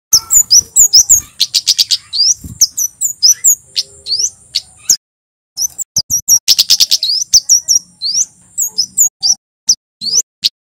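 Male Javanese kemade singing: a fast run of sharp, high, rising chirps with two quick rattling trills and a short pause about halfway. A thin steady high tone runs under the song.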